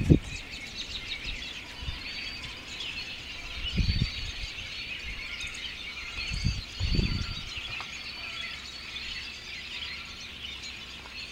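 A dense chorus of many American robins and red-winged blackbirds calling together in a migrating flock, countless high chirps and whistles overlapping without a break. A few low thumps come through about four and seven seconds in.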